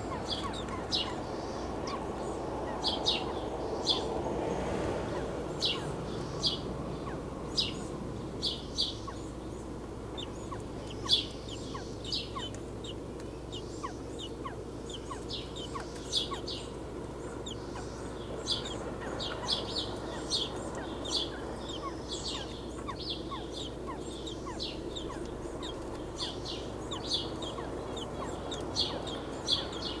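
Birds chirping: short, high chirps repeating in quick clusters all through, over a steady low hum.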